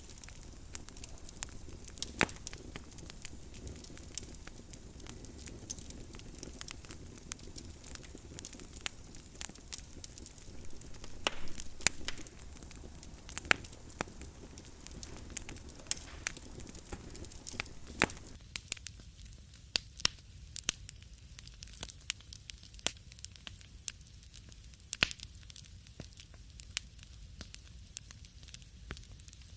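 Wood fire crackling in a fireplace: frequent sharp pops and snaps over a low steady rumble. About eighteen seconds in, the background hiss drops away while the pops carry on.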